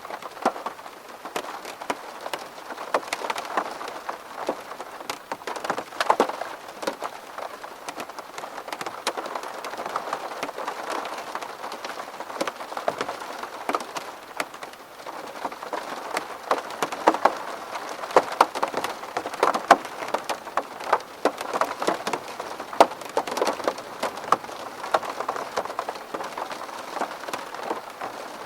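Steady rain falling on window glass, with many sharp individual drop ticks over a constant hiss.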